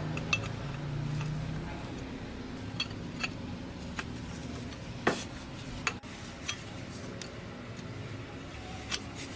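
Scattered clinks and taps of metal tools and parts being handled, with one louder knock about five seconds in.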